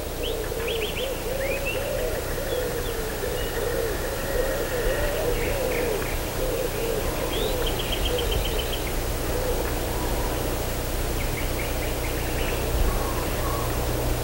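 Birds calling: short high chirps and quick rattling trills, with a lower warbling call that wavers up and down, over a steady low hum.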